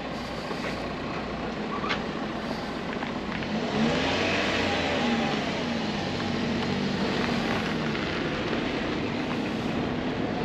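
Car engine running nearby, its note rising and then falling about four seconds in before holding steady, over steady traffic noise.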